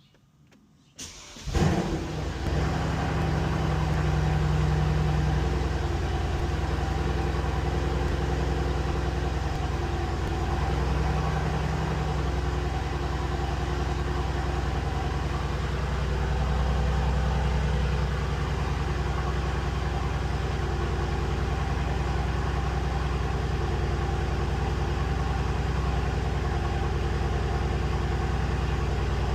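Cold start of a 2018 Mercedes-AMG C63 S's twin-turbo V8: the engine catches about a second and a half in with a loud flare of revs, then settles into a steady idle.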